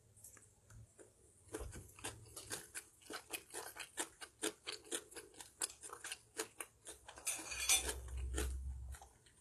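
Close-miked eating of a mouthful of fried instant noodles: a run of sharp, wet clicks at about three to four a second, with a short rustling hiss a little before the end.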